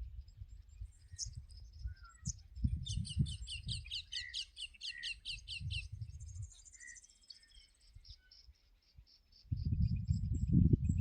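Small birds calling: a rapid series of high, downward-sliding chirps, about four a second, for about three seconds, followed by a brief higher trill, over faint steady high-pitched chirping. A low rumble rises near the end.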